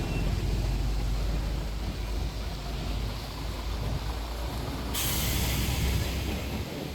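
Double-decker tour bus running with a steady low engine rumble, and a loud hiss starting about five seconds in that lasts a couple of seconds.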